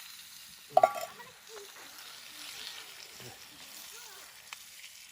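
Food sizzling in a pan over a campfire, with a brief louder sound about a second in and faint voices in the background.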